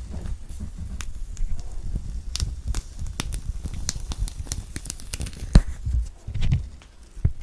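Thick orange peel being torn and pulled off the fruit by hand close to the microphone: a run of crackling and snapping, with one sharp louder snap about five and a half seconds in.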